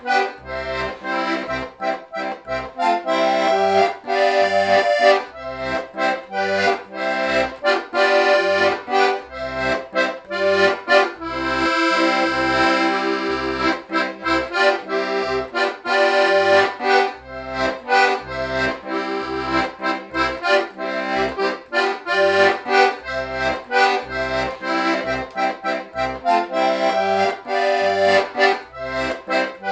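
Club IIB diatonic button accordion playing a folk tune, the melody over a rhythmic alternating bass-and-chord accompaniment, with a held chord about twelve seconds in.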